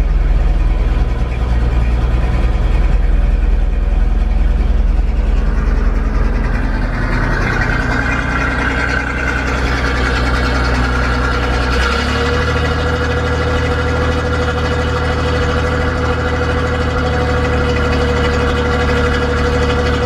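1961 GMC truck's V6 engine running steadily; about twelve seconds in its note steps to a new speed and a steady whine comes in.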